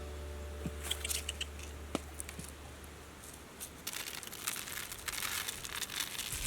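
Dry crinkling and rustling, a dense run of small crackles starting about four seconds in, after the tail of a steady low hum fades out.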